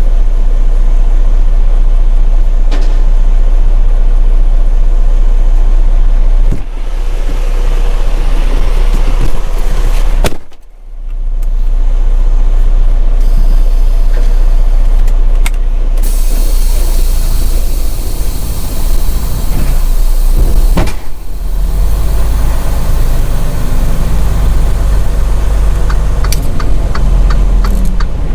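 Semi truck running, a steady low engine-and-road rumble, with a run of quick ticks near the end.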